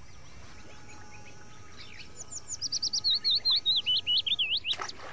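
A small bird singing: a fast run of high, quick chirps that starts about two seconds in and steps down in pitch over nearly three seconds.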